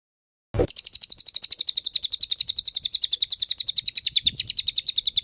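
Songbird recording of a rapid 'tembakan' trill: a fast, even run of sharp, high repeated notes, about ten a second, that starts abruptly about half a second in and runs without a break until it cuts off at the end.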